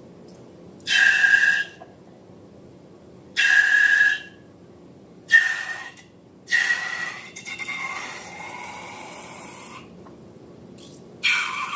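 Air squealing and hissing out of a stretched balloon neck in short bursts, four times with a fifth starting near the end. The fourth burst trails off longer and softer.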